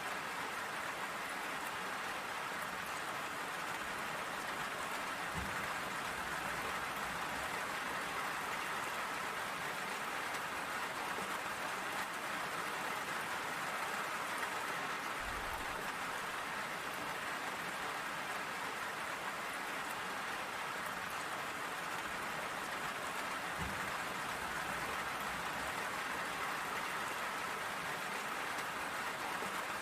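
Steady rain falling and pattering on surfaces, an even hiss with no let-up. A few faint low thuds are heard under it: one about five seconds in, one midway and one near the end.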